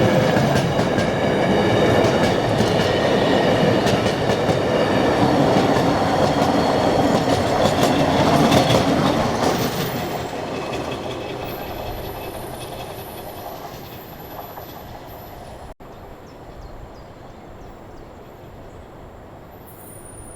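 A train passing close by, its wheels clattering over the rail joints under a thin steady high whine. It fades away from about ten seconds in.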